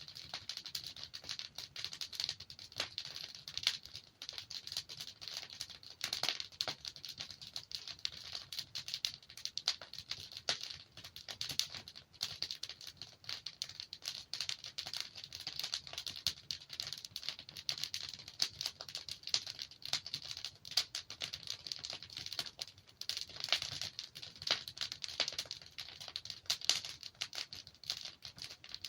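Wood fire burning in a fireplace: logs crackling and popping in quick irregular clicks over a steady soft hiss.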